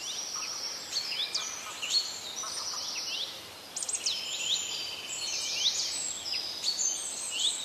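Several birds singing and calling at once: overlapping quick chirps, down-sweeping whistles and buzzy trills that run on without a break, over a faint steady hiss.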